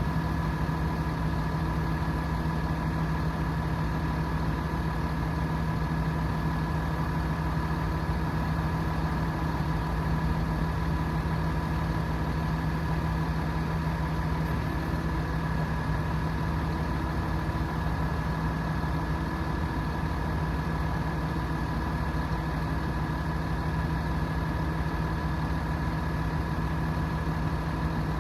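A 7.6-litre turbo diesel truck engine idling steadily, with a thin steady whine above it; neither the speed nor the pitch changes.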